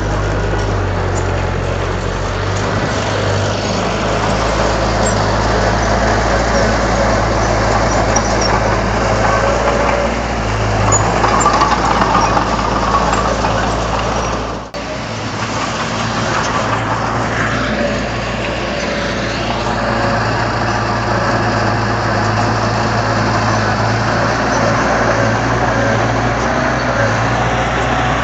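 Heavy diesel earthmoving machinery running steadily, with a short sudden break about halfway through.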